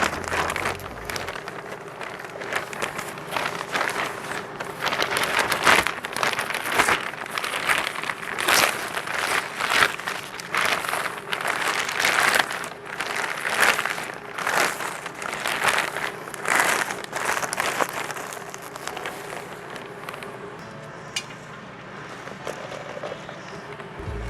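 Dry potting soil being scooped with a plastic cup and poured into a pot around a plant's root ball, a run of repeated rustling, crumbly pours that grow quieter near the end.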